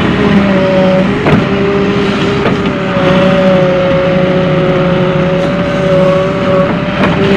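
Volvo EW130 wheeled excavator's diesel engine and hydraulics running steadily under working load, the whine shifting slightly in pitch as the hydraulics are worked. A few sharp knocks sound over it.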